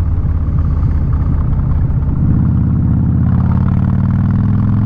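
Harley-Davidson Street Bob's V-twin with Vance & Hines exhaust running while riding, the exhaust note growing a little louder about two seconds in.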